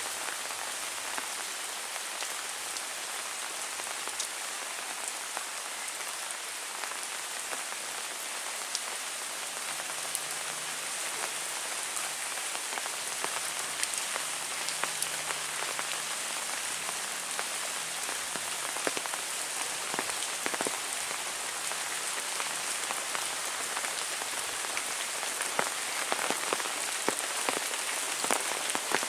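Heavy rain falling steadily as an even hiss with many separate drops ticking through it. The drops grow sharper and a little louder in the last few seconds.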